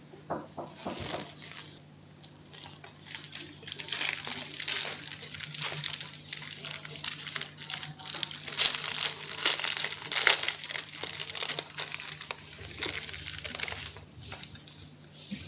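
Close-miked crunching and crumbling of chalk: a dense run of dry crackles, sparse for the first couple of seconds and then thick and continuous, loudest a little past the middle.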